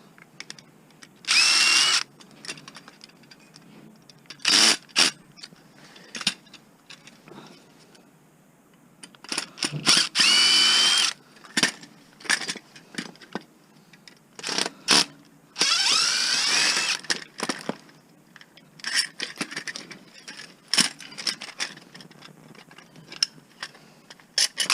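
Power drill run in several short bursts, its motor whine rising each time it spins up, as it drives out screws from scrap metal. Light clicks and knocks come between the bursts. A worn bit or screw is keeping the fasteners from coming out.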